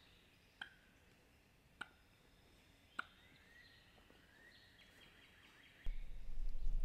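Dawn woods with faint bird calls: three short, sharp notes about a second apart, thin high calls and a rising whistle. A sudden low rumble of handling noise on the microphone starts near the end.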